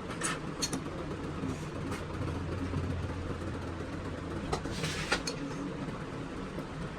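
Steady low hum of a running engine or machine, with a few light clicks and a short hiss about five seconds in.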